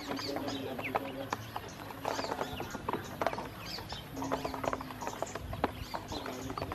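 Ducklings peeping in many short rising chirps over a dense, rapid clicking and pattering of bills pecking and dabbling at feed. A low steady hum comes and goes underneath.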